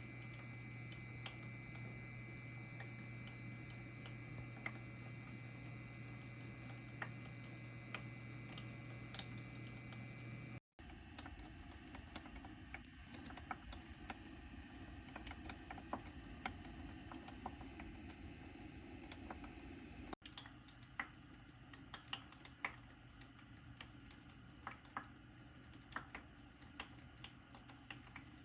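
Vicks ultrasonic cool-mist humidifier running quietly: a faint steady low hum with irregular light ticks over it. The sound changes abruptly twice, about a third of the way in and again two-thirds through.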